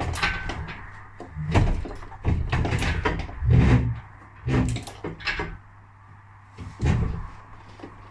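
Irregular heavy knocks and clunks, about eight of them with the loudest in the first half, as the engine and gearbox are shifted about on a hydraulic engine lift, over a steady low hum.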